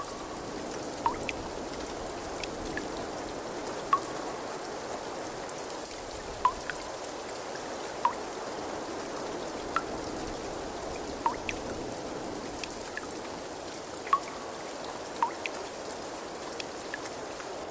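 Water trickling and running steadily, with clear, pitched drips plinking every second or two.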